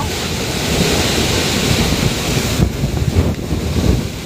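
Typhoon wind and driving rain, loud and gusting, with heavy wind buffeting on the microphone.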